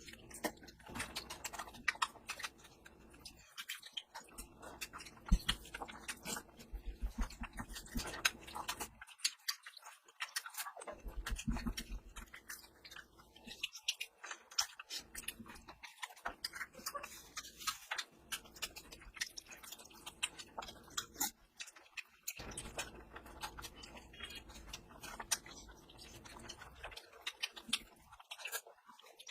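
Close-miked chewing and wet mouth sounds of a person eating oily curry and rice: dense, irregular smacks and clicks with a few brief pauses.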